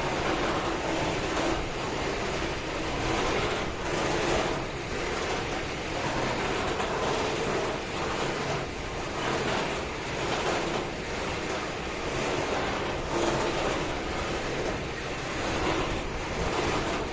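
Steady rushing rumble of a shunting locomotive and freight wagons moving through a rail yard, with wind buffeting the microphone so the level keeps swelling and dipping.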